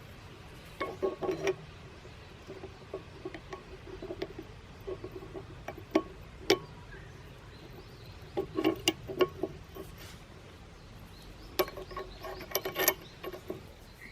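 Metal parts clinking and rattling as they are handled, in three short bursts with scattered light taps and a couple of sharp clicks between them.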